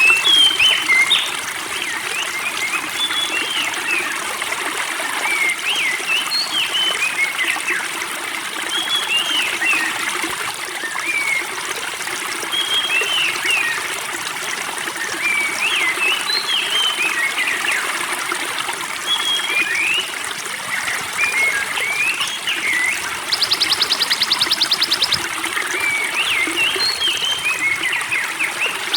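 Spring water trickling, with small songbirds giving short, repeated chirps and gliding notes throughout. Near the end there is a rapid, even buzzing trill lasting about two seconds.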